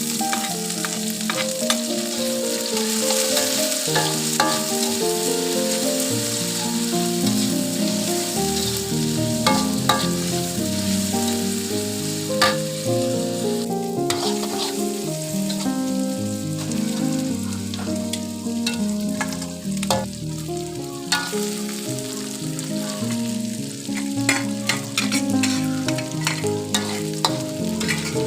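Food sizzling as it fries in a pan, with sharp clicks and scrapes of a utensil stirring it, over instrumental background music.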